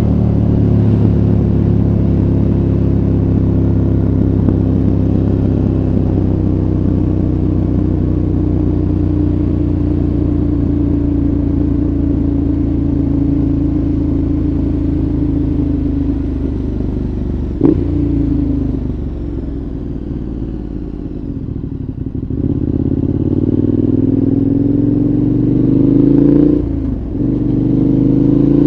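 2014 KTM 1190 Adventure's V-twin engine through a Giannelli exhaust, heard onboard: running steadily for over half the time, then a sharp throttle blip, a quieter stretch off the throttle, and a rising pitch under acceleration broken by a quick gear change near the end.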